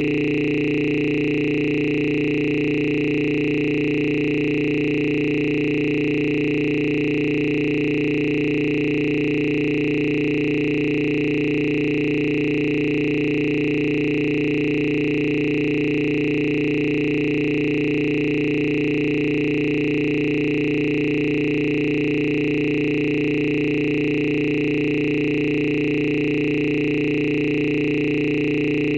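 A steady electronic tone of several pitches sounding together, held unchanged throughout.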